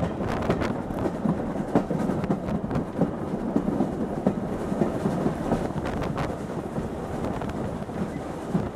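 Heritage steam-hauled train running along the line, heard from a carriage window: a steady rumble with irregular clicks and knocks from the wheels on the track.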